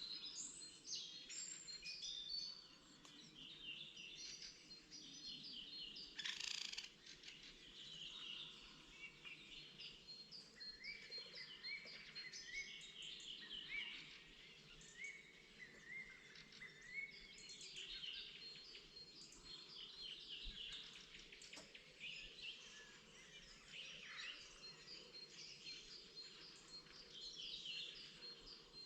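Several songbirds singing at once in a spring chorus: overlapping high chirps, trills and a thin note repeated in quick dashes, with a brief rush of noise about six seconds in.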